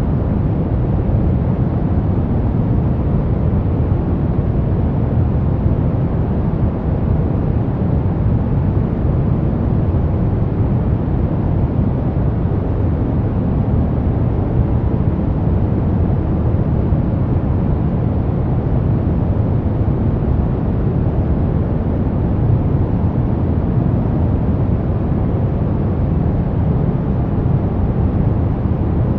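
Brown noise: a steady, deep, even rumbling hiss, its energy weighted toward the low end, with no changes or events.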